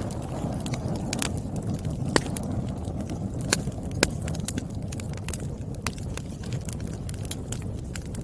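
Wood fire burning, with irregular sharp crackles and pops over a steady low rumble of flames. A few pops are louder than the rest, about two, three and a half, and four seconds in.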